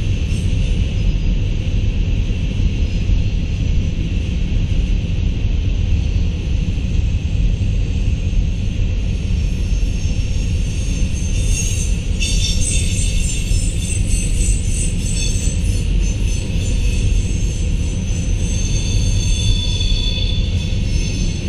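Freight train of covered hopper cars rolling slowly past: a steady low rumble of the wheels on the rails, with high, steady squealing tones over it that shift a little about halfway through and near the end.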